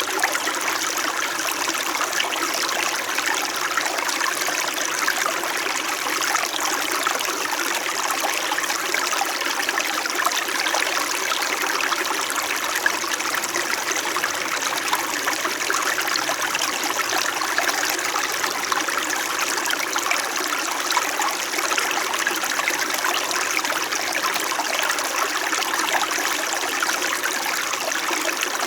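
Small mountain stream in winter babbling and trickling over rocks, a steady gentle flow.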